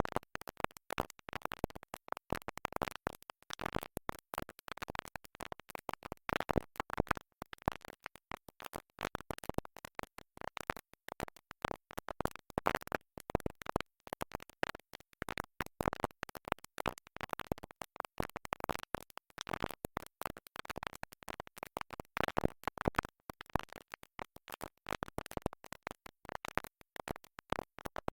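A stuck record: a tiny fragment of music skipping and repeating over and over in rapid, choppy stutters, with scratchy cut-offs between the repeats.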